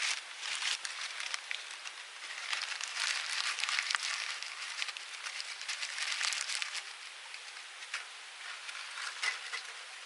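Small wood fire crackling and popping irregularly in a UNIFLAME Nature Stove twig-burning camp stove, thickest in the middle and thinning out toward the end.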